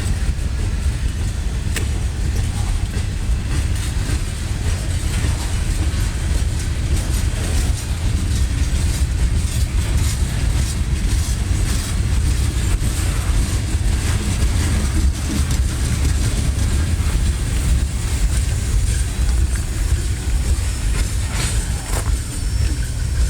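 Freight train cars rolling past close by: a steady low rumble of steel wheels on rail, with scattered clicks and clanks.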